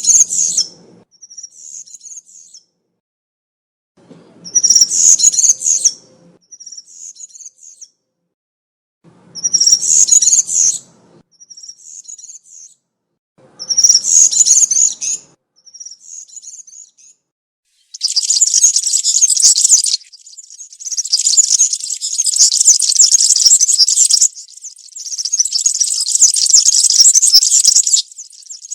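European serin singing its high, jingling song: four short phrases a few seconds apart, then from about 18 s long unbroken strophes with only brief pauses between them. This is the wild 'campero' song used to teach young caged serins.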